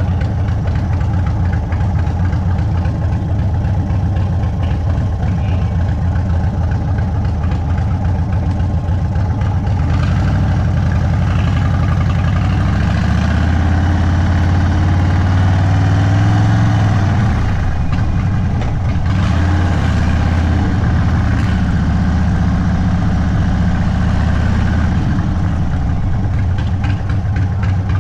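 Indian Sport Chief's Thunderstroke 116 V-twin engine running through its Sawicki Speed aftermarket exhaust at low revs. About halfway through the revs climb for a few seconds, then drop off suddenly and settle back to a steady low run.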